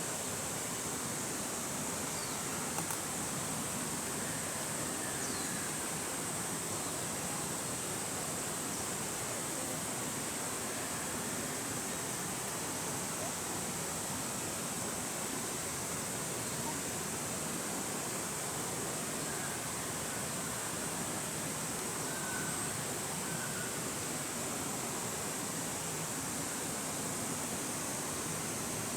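Steady rush of flowing stream water that does not change, with a thin high hiss above it.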